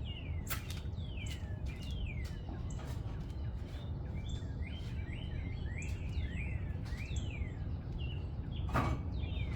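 Small birds chirping over and over in short, quick downward-sliding chirps, over a steady low background rumble. A sharp knock comes near the end.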